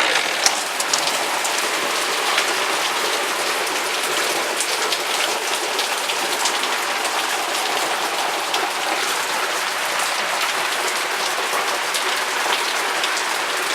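Heavy thunderstorm rain pouring down: a steady, dense rushing hiss full of individual drops ticking on surfaces, starting abruptly.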